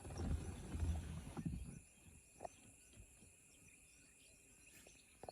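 Outdoor bush ambience: a steady high drone of insects, with a low rumble of wind on the microphone for about the first two seconds.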